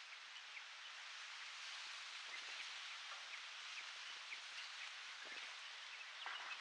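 Steady wind hiss with brief, high bird chirps scattered through it. From about two seconds in, low gusts of wind buffet the microphone, more strongly near the end.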